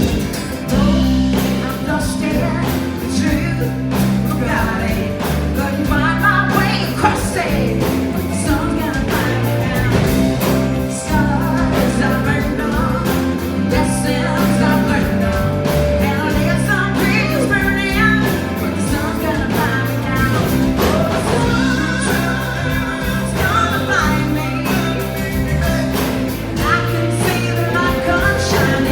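Live band playing an up-tempo song, with a singer's voice over strummed guitar and a steady beat.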